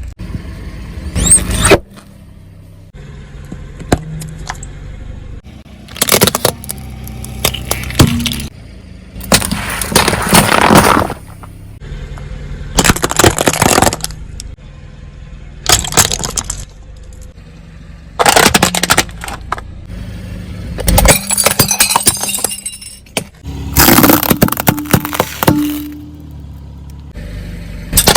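Objects being crushed under a car's tyres: a series of separate loud cracking, breaking crunches, one every two or three seconds, with a low steady hum between them.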